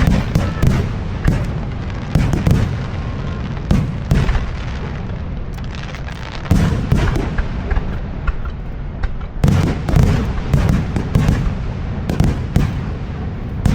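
Aerial fireworks shells bursting in a display: many sharp bangs in quick clusters, with a steady low rumble underneath.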